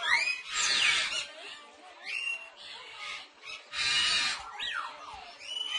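Parrots calling: harsh screeches, the loudest just after the start and about four seconds in, with short rising and falling whistles between them.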